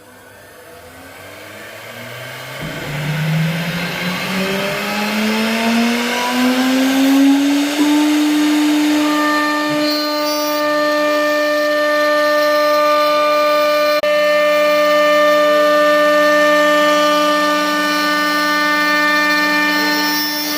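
CNC router spindle motor spinning up: a whine that grows louder and rises steadily in pitch for about eight seconds, then holds a steady pitch at full speed.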